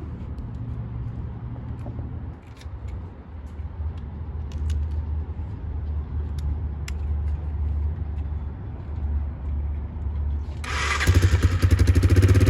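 A new 250 cc motorcycle's engine on its first cold start: a steady low rumble with a few light clicks, then about eleven seconds in it suddenly gets much louder, with a fast even pulsing.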